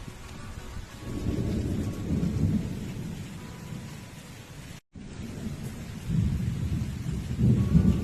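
Rain falling, with two long deep rumbling swells, one about a second in and one in the second half. The sound cuts out completely for a moment just before the middle.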